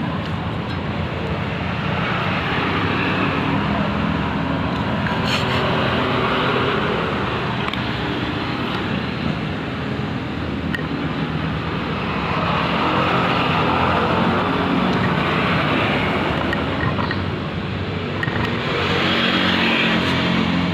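Ketinting longtail boat engine running steadily, its speed swelling and easing back several times.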